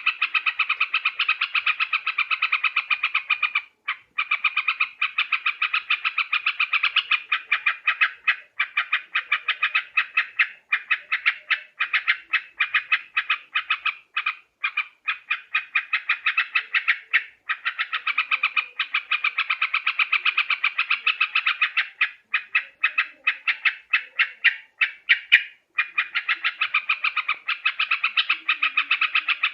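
Yellow-vented bulbuls (trucuk) calling: a dense, rapid, bubbling chatter of quick notes that runs almost without a break, with a few short pauses.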